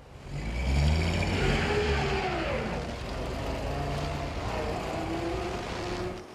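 An old saloon car's engine revving as the car pulls away, swelling about half a second in, its pitch rising and falling as it accelerates, then easing off near the end.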